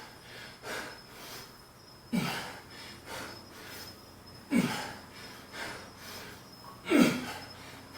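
A man breathing hard through a set of barbell squats: three loud, forceful exhales about two and a half seconds apart, one per rep, with quicker, fainter breaths between.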